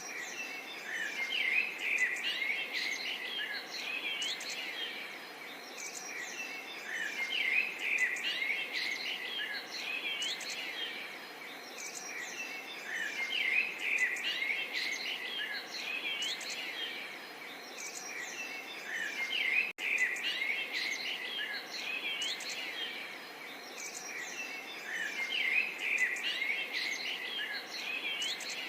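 A dense chorus of birds chirping and calling, the flock's calls swelling and easing every six seconds or so over a steady background hiss. The sound drops out for a split second about two-thirds of the way through.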